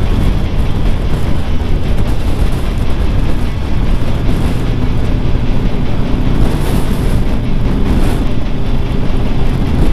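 Triumph Tiger 1200 GT Pro motorcycle on the move: its three-cylinder engine running steadily under a heavy, constant rush of wind.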